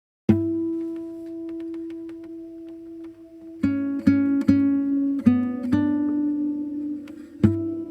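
Instrumental acoustic guitar intro: one chord is struck and left ringing for about three seconds, then a run of plucked chords follows, about two a second, and another ringing chord is struck near the end.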